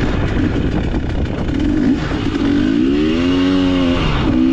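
Off-road vehicle engine under way with a low rumble; about two and a half seconds in its pitch climbs and holds, drops briefly near the end, then climbs again as it is revved.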